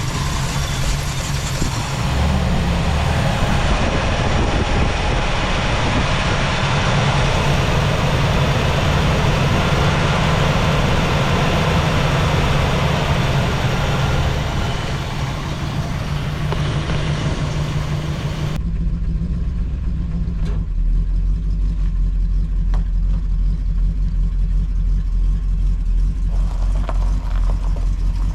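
Plymouth Superbird's 440 Six Pack V8 idling steadily just after a cold start, a very rich idle by the owner's account. About two-thirds of the way through the sound turns suddenly deeper and more muffled, the higher part dropping away while the low engine sound carries on.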